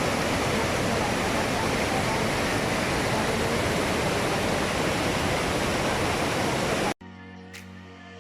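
Steady rush of the Busowoko Falls rapids on the River Nile, white water pouring over rocks. It cuts off suddenly about seven seconds in, and background music takes over.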